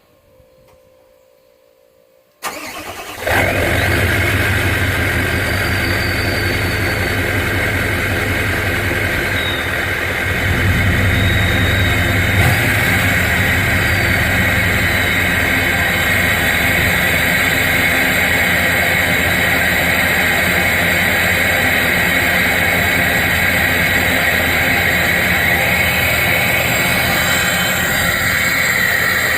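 Cold start of a Nissan Titan XD's 5.0-litre Cummins V8 turbodiesel with a 4-inch exhaust: after a faint steady tone, the starter cranks about two and a half seconds in, the engine catches within a second, and it settles into a loud, steady idle.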